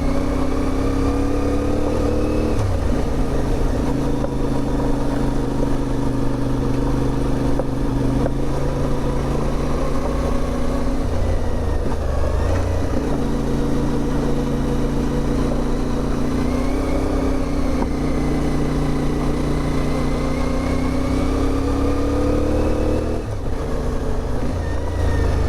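CFMOTO 450MT motorcycle's parallel-twin engine running under way at a steady, loud level. Its note drops about two seconds in, climbs again around halfway, and drops once more near the end.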